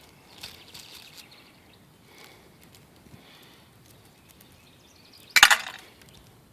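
Small rocks being put into a lawn mower's gas tank: a few faint clicks of stones, then one sharp rattle of pebbles dropping into the tank about five seconds in.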